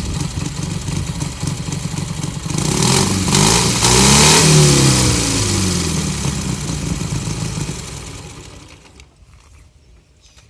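Homemade Ural motorcycle trike's Dnepr flat-twin engine running, then revving louder as the trike drives past, its pitch rising and falling, and fading away over the last few seconds.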